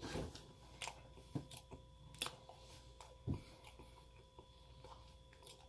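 Quiet chewing of a flaky, buttery croissant: scattered soft mouth clicks and crackles, a few slightly louder than the rest.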